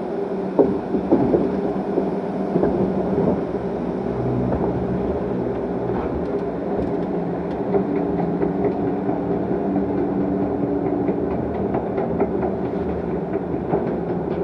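Log flume ride machinery running with a steady hum, joined about halfway through by a regular clacking that is typical of a boat being carried up the lift hill.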